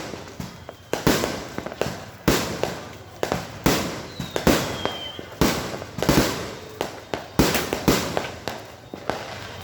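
Fireworks going off: loud bangs about once a second, each trailing off into crackle, with a high whistle falling in pitch a little past four seconds in.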